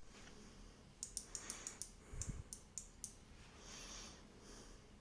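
Faint sharp clicks, about eight in under two seconds, from a small replacement microswitch in a Grundfos Sololift 2 pump's switching unit being handled and adjusted because it is too stiff.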